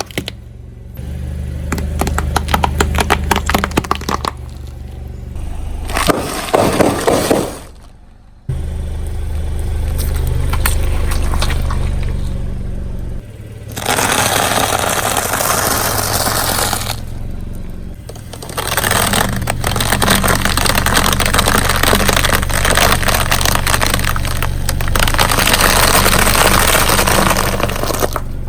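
A series of car tyres rolling slowly over objects and crushing them: crackling, snapping and crunching, with the car's low engine hum underneath. Dense cracking comes in the first few seconds, and longer hissing, crunching stretches follow.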